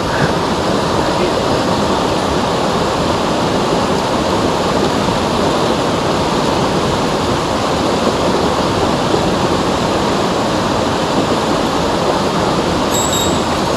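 Mountain stream water rushing, a steady even noise with no let-up.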